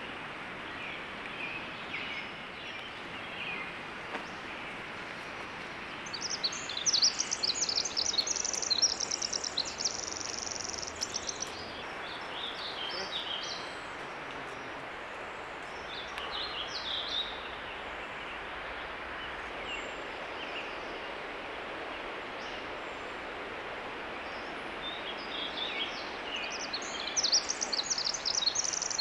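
Songbirds singing fast, trilling phrases, loudest about six to eleven seconds in and again near the end, over a steady outdoor hiss.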